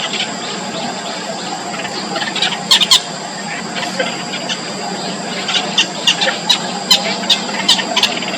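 Nestlings' short, high-pitched begging peeps, a loud cluster about three seconds in and then a quick run of evenly spaced peeps near the end.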